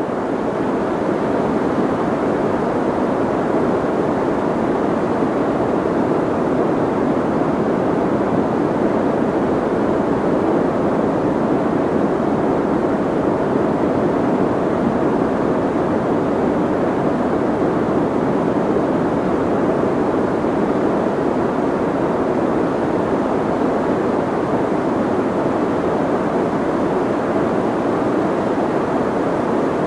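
Soft white noise: a steady, unchanging rush, strongest in the low and middle range with little hiss at the top, so it sounds muffled.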